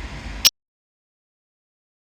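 Low steady outdoor background rumble for about half a second, ending on a single sharp click as the recording cuts off, then dead digital silence.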